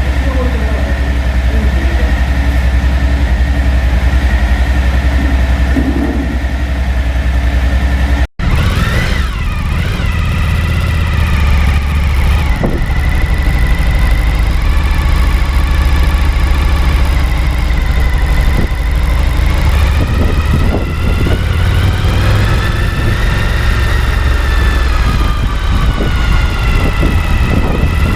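Suzuki V-Strom 1050XT's V-twin engine running steadily at idle after a fuel filter change. There is a sudden break about eight seconds in, and later the engine speed rises and falls gently.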